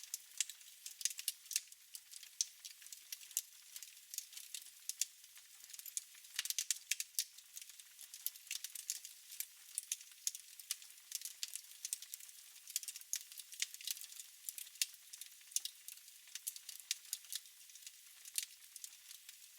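Fire in a fireplace crackling, with irregular sharp snaps and pops over a faint hiss.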